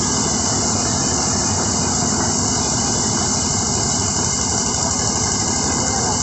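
Engine of a rice harvesting machine running steadily at a constant speed, with a dense, even mechanical noise.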